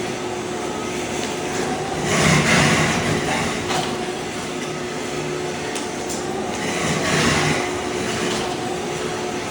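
Ride-on floor scraper machine running and scraping thin-set mortar off a concrete slab: a steady mechanical hum under harsh scraping noise, which swells louder about two seconds in and again around seven seconds.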